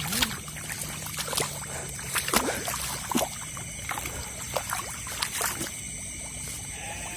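Shallow water splashing and trickling in irregular bursts as someone wades through a flooded rice paddy, over a steady high-pitched chorus of night insects.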